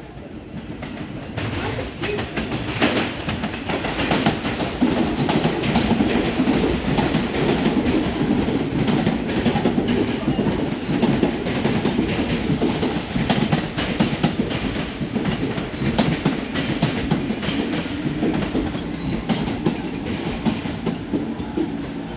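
Subway train running past on the rails, its wheels clattering steadily over rail joints. It grows louder over the first few seconds, then holds loud.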